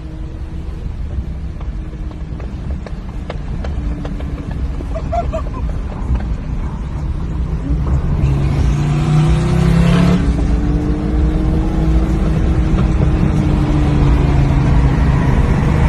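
Loud car engine and exhaust, its note slowly rising and falling, growing steadily louder.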